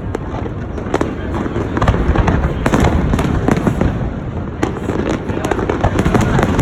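Fireworks display: a continuous barrage of overlapping booming shell bursts and crackling, several bangs a second.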